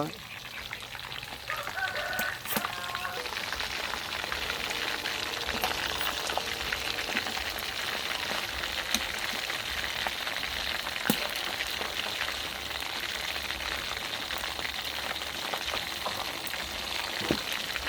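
A whole breaded elephant ear gourami deep-frying in hot oil: a steady sizzle with scattered crackles and pops.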